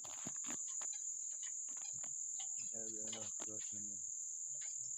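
Steady high-pitched insect trill, with scattered light clicks and a voice briefly in the middle.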